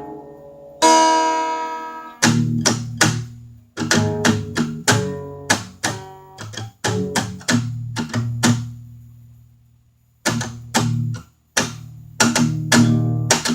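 Solo blues guitar playing, a bright struck chord ringing about a second in, then a run of sharply plucked notes and chords. It fades almost out around ten seconds in before picking up again.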